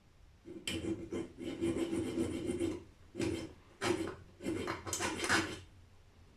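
Hand tool scraping a mark into the steel shell of a Corvette C3 brake booster: four rasping strokes, the first lasting about two seconds, two short ones, then a last stroke of about a second.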